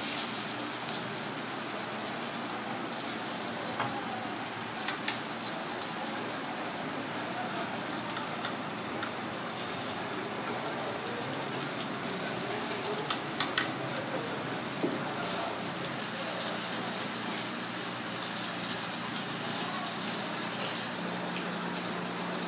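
Pieces of sea robin frying in oil with chopped garlic in a black iron pan, a steady sizzle. A few sharp clicks come about five seconds in and again a little past halfway, as chopsticks turn the pieces.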